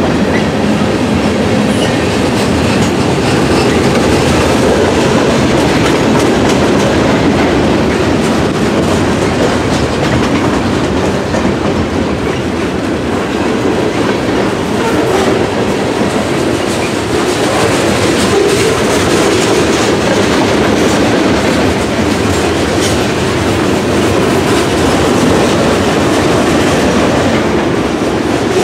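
A train rolling past at close range, its wheels clattering over the rail joints, loud and steady throughout.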